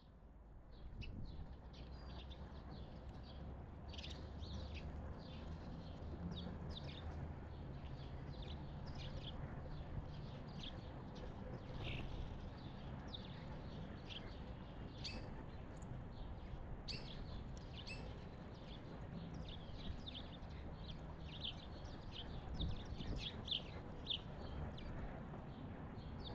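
Several small songbirds chirping and calling in quick, overlapping short notes, over a low steady rumble.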